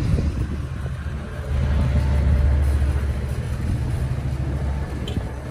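Diesel passenger train's engine rumbling low and steady as it moves through the station. It swells louder about a second and a half in and eases off near the end.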